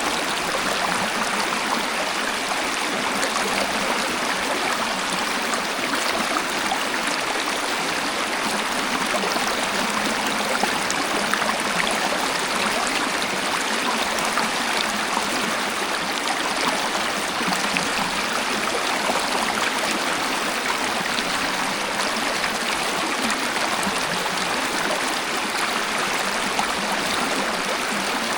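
Waterfall water splashing and flowing steadily, a constant rushing hiss with no changes.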